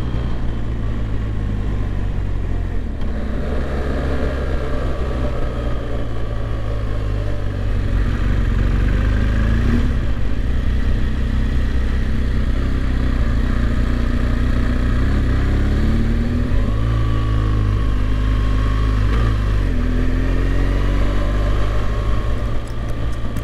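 BMW R1200GS Rallye's boxer-twin engine running on the road while riding, its note rising and falling a few times as it speeds up and eases off.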